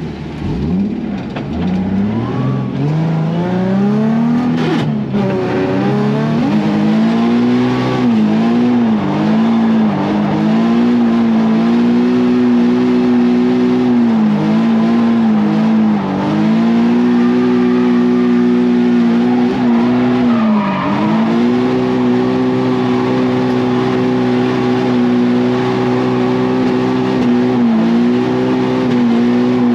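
Nissan 350Z drift car's V6 engine accelerating hard, then held at high revs with a quick lift and return of the throttle every second or two. One sharp knock about five seconds in.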